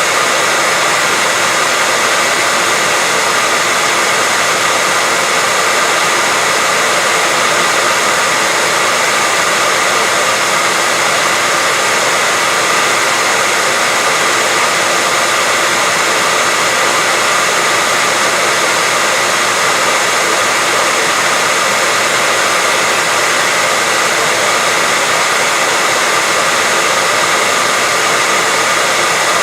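Steady white noise: an even, unchanging hiss, stronger in the upper range than in the bass, with faint steady tones running through it.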